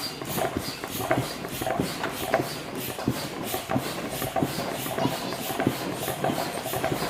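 Steady rhythmic mechanical clatter, about three clicks a second, over a hiss.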